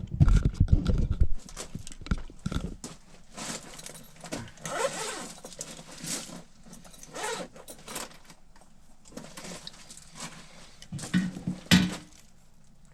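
Handling noise of small metal parts and tools: rustling and clinking, with heavy bumps and knocks in the first few seconds and a few sharp clicks near the end, typical of digging out and fitting insulated crimp terminals.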